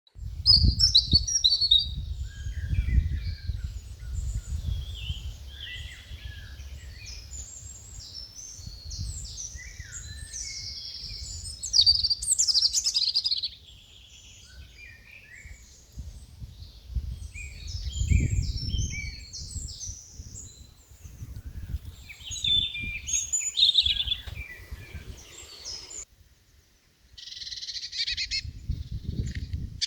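Several birds chirping and singing in overlapping short calls and trills, over a gusty low rumble. The sound drops out briefly about four-fifths of the way through, then the birdsong resumes.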